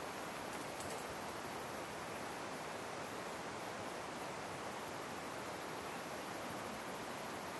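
Steady, even water noise with no distinct drops or events: rain and running river water.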